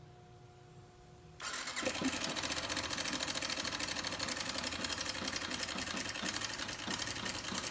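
Yamaha Factor 150 single-cylinder motorcycle engine starts about a second and a half in and runs at idle with a fast, even metallic clatter. The mechanic traces the noise to a slack, loose cam chain slapping.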